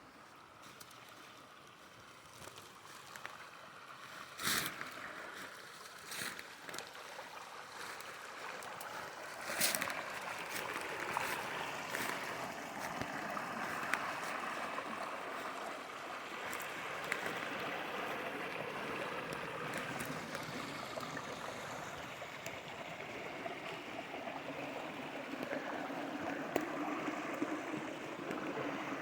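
Water flowing in a small stream channel, a steady rushing that grows louder over the first ten seconds and then holds. A couple of sharp knocks come through near the start.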